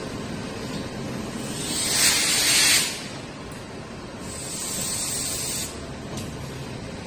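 Train's air brakes venting compressed air in two hisses: a loud one about two seconds in that cuts off sharply, then a softer, longer one about four seconds in.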